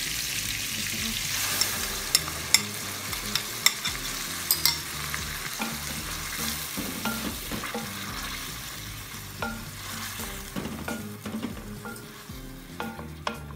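Yogurt and green chillies sizzling as they hit hot oil with fried onions and boiled beef in a steel pot, stirred with a wooden spoon. Sharp utensil taps come in the first few seconds, and the sizzle dies down toward the end as the yogurt cools the pan.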